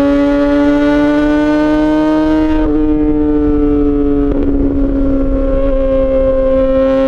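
Yamaha XJ6 S's inline-four engine through an SC-Project aftermarket exhaust, pulling under throttle with a slowly rising pitch. The pitch drops suddenly about two and a half seconds in as it shifts gear, the note turns rougher for a moment around the middle, then climbs again near the end.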